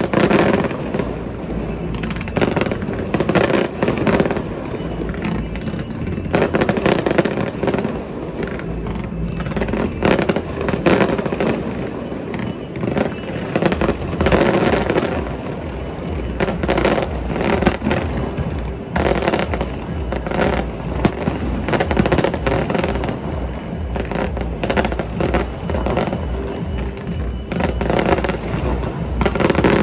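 Fireworks display: a steady run of aerial shell bangs and crackles, with music playing underneath.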